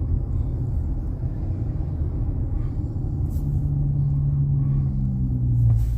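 Dodge Challenger with MagnaFlow Magnapack exhausts cruising, a steady low exhaust rumble with road noise; about halfway through a stronger, steady engine drone comes in.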